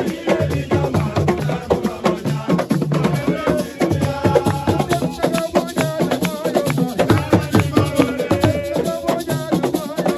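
Assiko music: drums and shaken rattles playing a fast, dense rhythm without pause.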